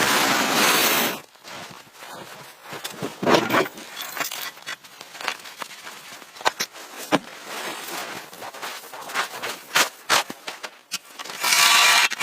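Irregular crackles and sharp pops, between stretches of steady hiss at the start and near the end.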